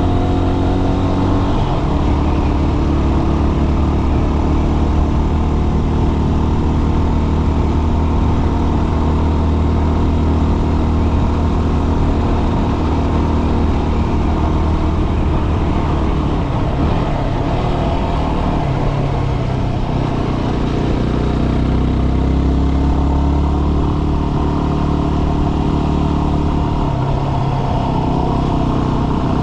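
Dual-sport motorcycle engine running steadily while riding, its pitch rising and falling with the throttle around the middle.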